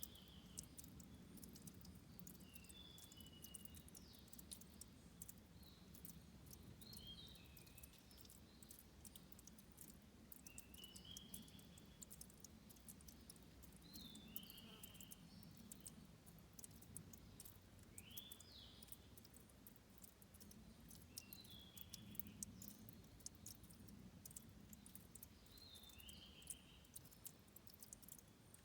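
Faint trickle of a headwater stream with fine ticking drips, and short high chirps that come every one to three seconds.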